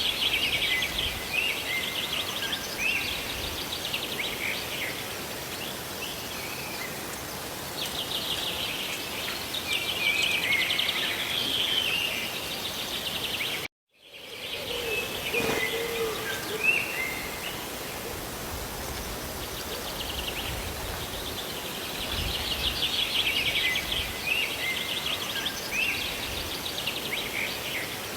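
Steady hiss of rain with small birds chirping and singing in recurring bouts over it. The sound cuts out completely for a moment a little before halfway through.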